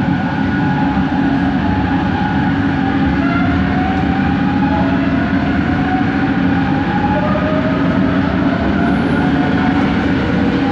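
Kelana Jaya Line LRT train's motor, a linear induction motor, heard from inside the carriage over a steady running rumble, with its whine climbing in a series of rising tones as the train gathers speed.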